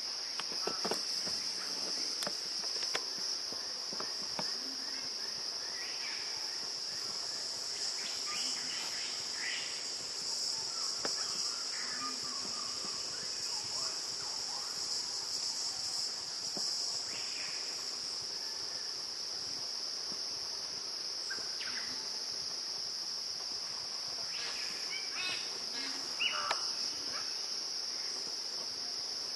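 A steady, high-pitched chorus of insects droning, with scattered short bird calls over it, a louder cluster of calls near the end.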